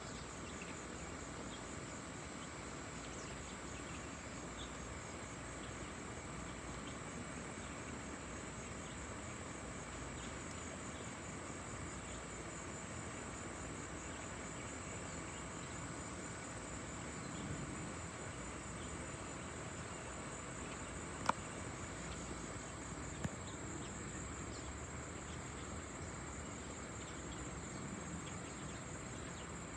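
Crickets chirping in a steady, high, pulsing trill over a faint, even low rumble. Two sharp clicks come about two seconds apart, a little past the middle.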